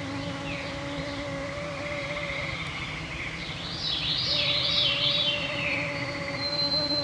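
Mosquitoes whining close to the microphones in a steady, slightly wavering hum, over an evening chorus with a pulsing trill in the background. A bird sings a fast, swirling, downward-cascading phrase around the middle, and a clear pure whistled note begins near the end.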